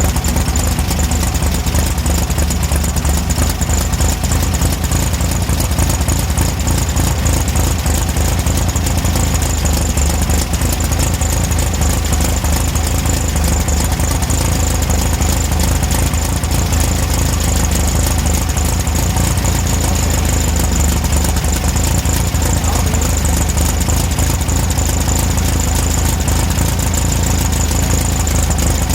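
Air-cooled VW Beetle flat-four engine running steadily with an even, unchanging beat, on its newly installed Magnaspark II electronic distributor with the timing set at 29 degrees.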